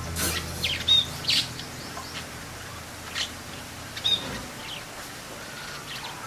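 Small birds chirping: a quick cluster of short, sharp calls in the first second and a half, then a few more around three and four seconds in, over a faint steady hiss.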